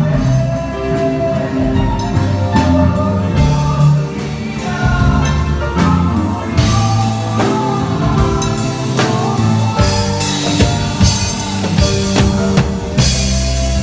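Live band playing loudly, with singing over drums and cymbals and sustained bass and keyboard-like notes.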